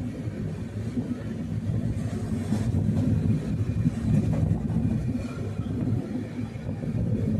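Train running along the tracks: a steady low rumble.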